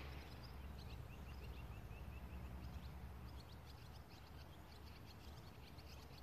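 Wild birds singing: a quick run of repeated chirps, then a string of short high notes, faint over a steady low rumble.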